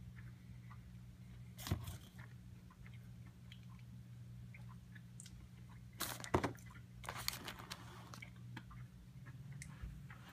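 Close-up chewing of a bite of crispy breaded chicken sandwich, with sharp crunchy clicks about two seconds in and a cluster of louder ones around six to seven seconds in. A steady low hum runs underneath.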